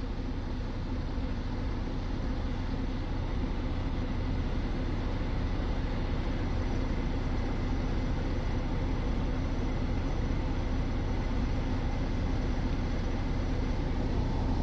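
Steady running noise inside a diesel truck's cab: the engine idling, with the air-conditioning blower on.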